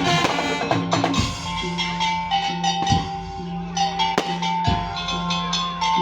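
Madurese ul-daul ensemble playing: drums and wooden percussion strikes over held melodic notes.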